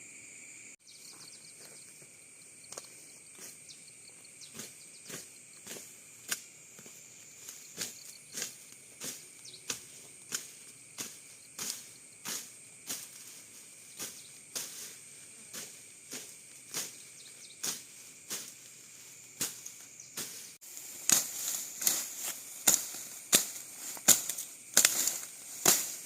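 Regular sharp knocks, about one and a half a second, like hand-tool strokes on wood or bamboo, becoming louder and closer after a cut about 20 seconds in. A steady high insect drone runs underneath.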